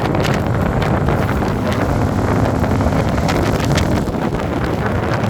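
Wind buffeting the microphone of a moving motorcycle: a loud steady rush with frequent short crackles.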